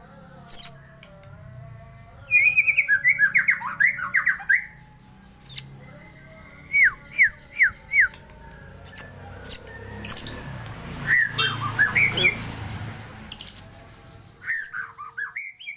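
A murai (Copsychus songbird) singing in bursts: fast warbled phrases, a run of four sharp downward-sliding whistles about halfway through, and short high chips between phrases, over a steady low background hum.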